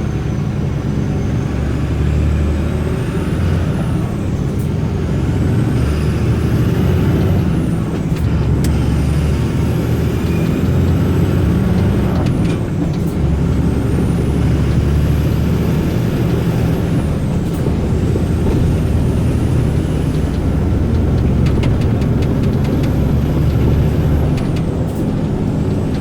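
Volvo FE 320 truck's turbo diesel engine pulling under load, with a low engine rumble beneath a high turbo whistle. The whistle climbs in pitch, falls away suddenly and climbs again about five times.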